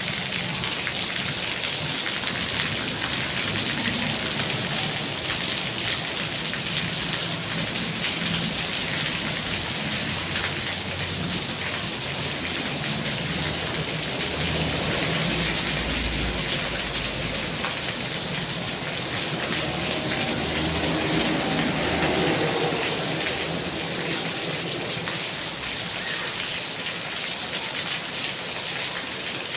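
Heavy rain falling steadily, a dense even hiss of drops, with a low rumble rising and fading through the middle of the stretch.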